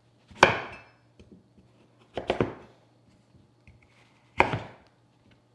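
Three separate knocks and clatters of kitchen work, about two seconds apart, the middle one a quick double, over a faint low steady hum.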